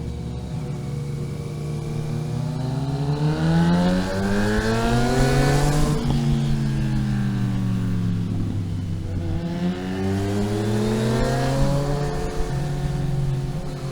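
A vehicle engine accelerating up through the gears: its pitch climbs, drops sharply about six seconds in at a gear change, climbs again and drops near the end at the next shift.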